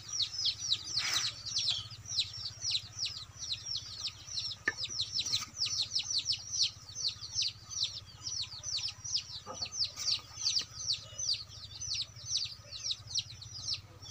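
Birds chirping continuously in quick, high, downward-sliding notes, several a second, with a few faint clicks.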